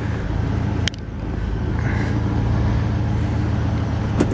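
1970 Oldsmobile Cutlass engine idling steadily, heard from inside the cabin, with a sharp click about a second in and a couple more near the end.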